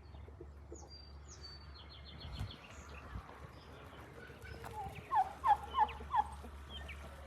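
Young turkeys calling: a run of about five short calls, roughly three a second, about two-thirds of the way in, with fainter high chirps earlier.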